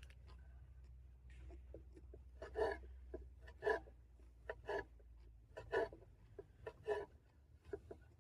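A utensil scraping in a cooking pot in short strokes about once a second, over a low steady hum that fades about five and a half seconds in.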